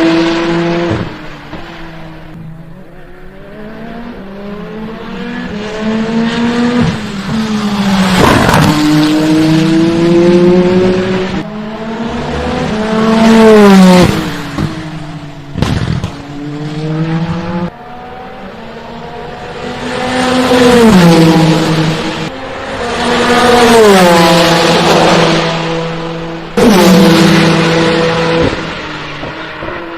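Peugeot 9X8 racing prototype's twin-turbo V6 at speed on track, passing by several times: the engine note climbs through the gears, peaks as the car goes by, then drops away. Some passes break off suddenly.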